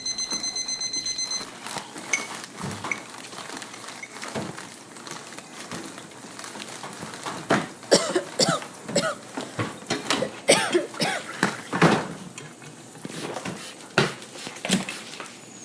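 An electronic alarm clock beeps rapidly and cuts off about a second and a half in. A run of irregular clicks, knocks and short squeaky sounds follows, busiest in the middle.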